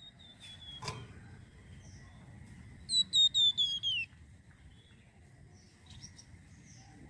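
Flamboyan songbird calling: a quick run of about six clear whistled notes, each a little lower than the last, about three seconds in, with softer high chirps before and after. A sharp click comes about a second in.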